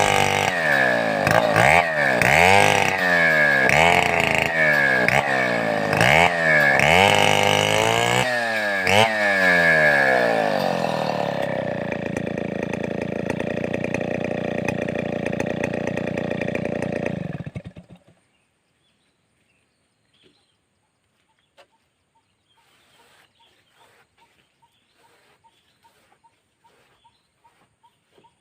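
Large two-stroke chainsaw being revved rhythmically, its pitch rising and falling about once a second. It then runs more steadily and cuts off abruptly about eighteen seconds in, leaving only faint scattered ticks.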